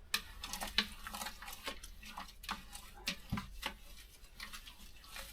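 Thick grain mash being stirred in a mash tun: irregular scraping and light knocks of the paddle against the vessel and the wet malt.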